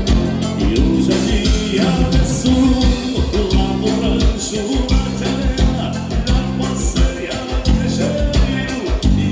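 Live gaúcho dance music from a band: a steady drum beat under held accordion chords, with singing.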